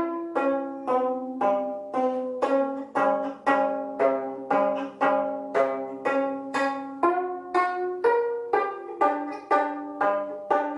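Gayageum, the Korean plucked zither, playing a slow melody: single notes plucked one at a time, about two a second, each ringing and fading before the next.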